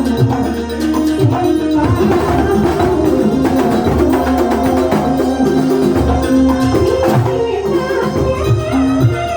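Banyuwangi kuntulan music played live: drums and percussion beating under sustained melodic lines.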